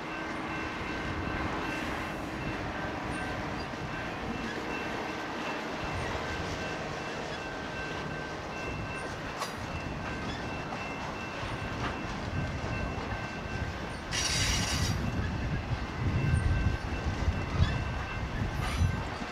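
BNSF intermodal freight train rolling past, its cars of trailers and containers rumbling and clacking over the rails. A short hiss comes about fourteen seconds in, and the wheel thumps grow louder near the end.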